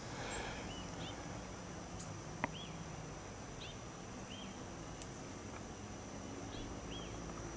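A songbird calling outdoors: short arched chirps in little groups of two or three, repeated about every three seconds over faint background noise. A single sharp click about two and a half seconds in.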